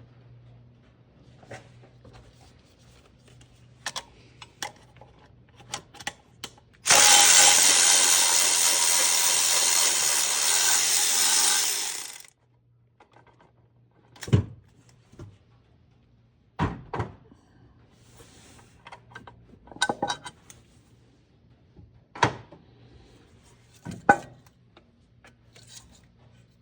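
Handheld power tool running steadily for about five seconds while a bolt is taken off the engine. Scattered sharp clinks and knocks of tools and metal parts come before and after it.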